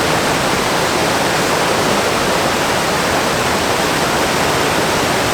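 Loud, steady rush of white water from a waterfall and a fast stream running high after heavy rain.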